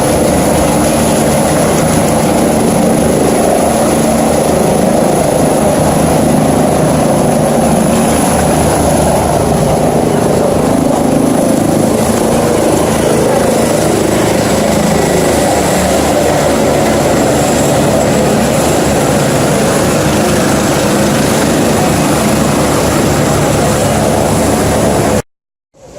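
Helicopter running close by: loud, steady rotor noise with a thin high whine over it. It cuts off abruptly near the end.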